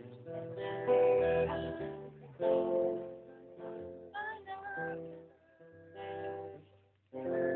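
Acoustic guitar strumming slow chords, one strum about every second and a half, each left to ring out.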